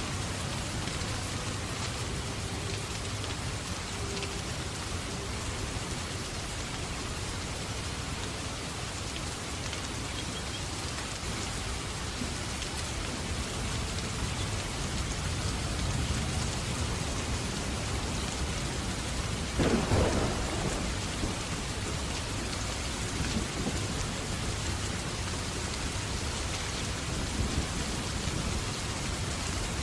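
Steady rain falling, with a sudden clap of thunder about two-thirds of the way through that trails off into a rumble.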